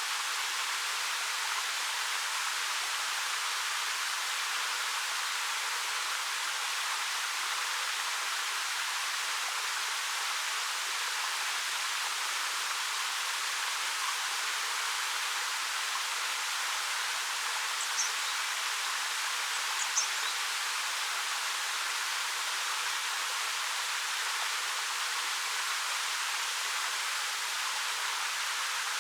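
Ariake Falls, a 13 m waterfall over black rock, pouring steadily as an even, hissing rush of water. Two short, high bird chirps about two-thirds of the way through.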